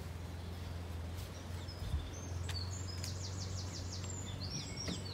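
A small bird singing: short high chirps and a quick run of about six repeated notes, over a steady low rumble. A single soft knock about two seconds in.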